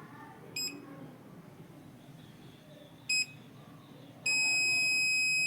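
Electronic beeper sounding a high, steady tone: two short beeps, then about three seconds in, one long beep of roughly a second and a half, as a magnet is put to the dishwasher's reed sensor to test it.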